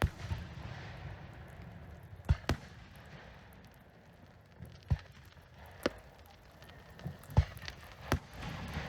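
Fireworks shells bursting overhead: about seven sharp bangs at irregular gaps of one to two and a half seconds, two of them close together about two seconds in, with a low rumble between the bangs.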